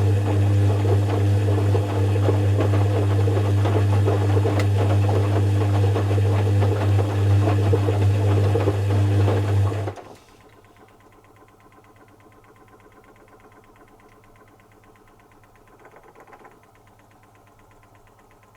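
Zanussi FC1000 compact washing machine's motor turning the drum with a steady hum, stopping abruptly about ten seconds in and leaving a quiet pause, as in the stop-start tumbling of a wash cycle.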